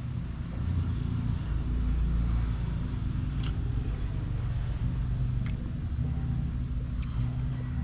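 A vehicle engine idling close by: a low, steady rumble, with a few faint clicks over it.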